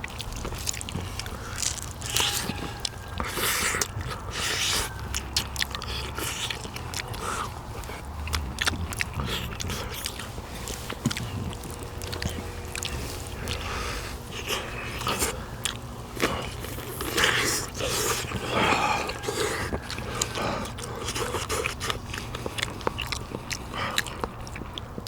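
Close-up eating sounds: a person biting and chewing meat from pork bones in gamjatang, with many short irregular clicks.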